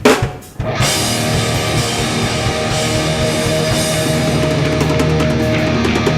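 Hardcore punk band playing live: a few drum hits, then distorted electric guitars, bass and drums come in together under a second in and drive a steady riff, without vocals.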